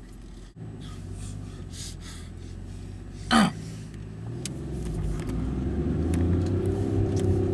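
Car engine running, heard from inside the cabin; from about halfway its pitch and level climb steadily as the car accelerates. About three seconds in, one short sound drops quickly in pitch.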